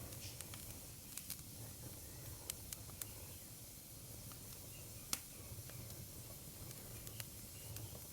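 Wood fire crackling: irregular small pops and snaps over a low steady rumble, with one sharper pop about five seconds in.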